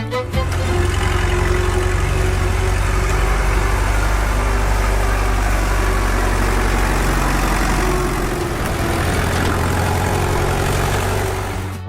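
Small engine running steadily at an even speed, easing slightly about eight and a half seconds in.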